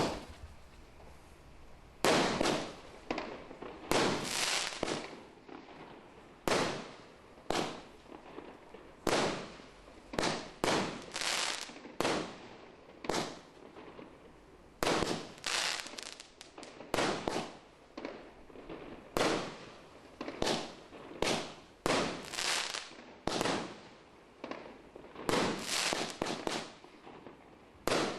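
Large display fireworks exploding, a sharp bang every second or two, some coming in quick clusters, each one trailing off briefly.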